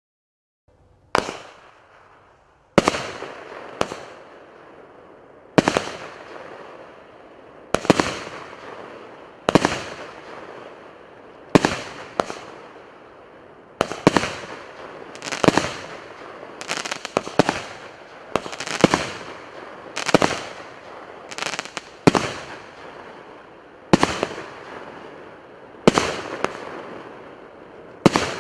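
A 25-shot, 1.2-inch consumer firework cake firing shot after shot: a sharp bang about every one to two seconds, each fading into a short noisy tail.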